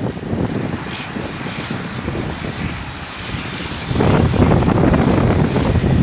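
Aircraft engine noise, a continuous rush with no clear pitch, mixed with wind buffeting the microphone. The low rumble gets louder about four seconds in.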